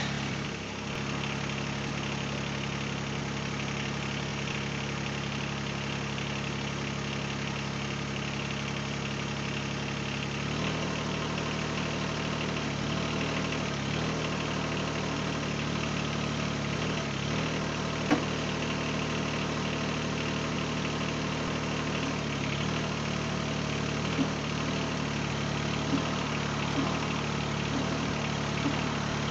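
Mahindra eMax 20S HST compact tractor's diesel engine running steadily. Its note changes about a third of the way in as the engine speed shifts, with a few light knocks later on.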